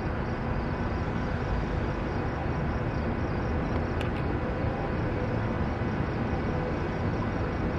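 Steady low rumble with a faint hum from a SEPTA electric commuter train, with two faint clicks about four seconds in.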